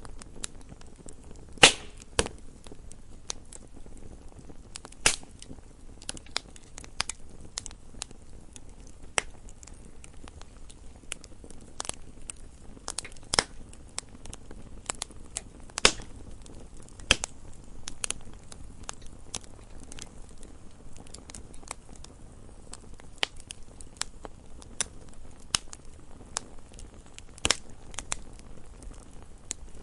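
Campfire crackling, with wood snapping and popping at irregular moments over a low, steady hiss of burning.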